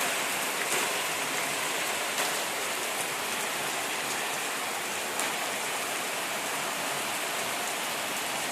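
Heavy rain falling steadily, a dense even hiss of rain on surfaces with now and then a louder single drop.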